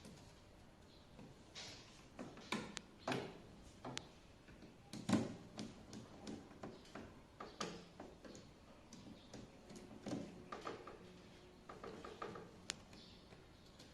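Irregular clicks, knocks and light clatter of tools and parts being handled during air-conditioner indoor-unit installation work. There are a dozen or so sharp taps at uneven spacing, the loudest about five seconds in.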